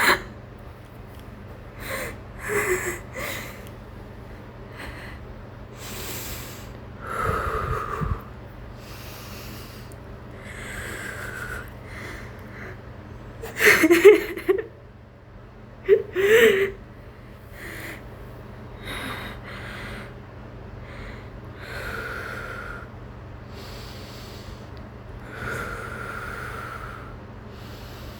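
A person's shaky, uneven breathing close to the microphone, breaths drawn in and let out every second or two, over a steady low hum. Two louder, sharper breaths with a catch of voice come about halfway through. It is the unsteady breathing of an anxiety or panic attack.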